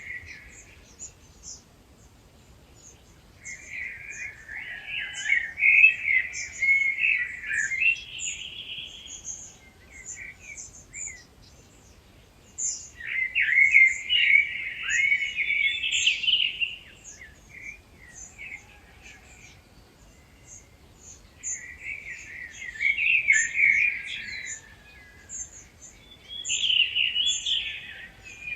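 Dawn chorus of wild birds. One bird sings loud, warbling phrases of three to five seconds, four times with pauses between, over a steady scatter of short, high chirps from other birds.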